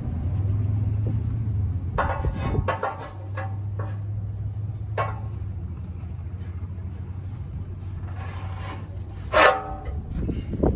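Metal tools clanking against a steel wheel rim during tire work: a cluster of knocks about two seconds in, another about five seconds in, and a loud ringing clang near the end. A steady low motor hum runs underneath.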